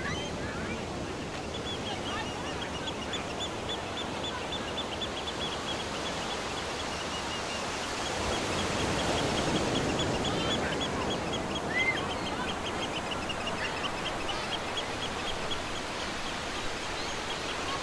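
Outdoor ambience: a steady rushing background noise with a bird calling in a long, fast series of short high notes, about five a second, and one louder rising chirp about twelve seconds in.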